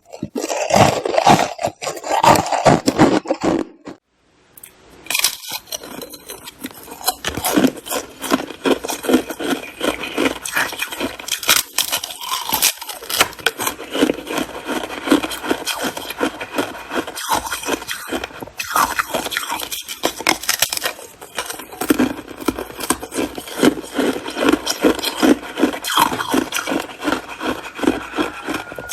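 Ice being crunched and chewed close to the microphone. A second of silence comes about four seconds in, then a long stretch of dense crackling, scraping crunches.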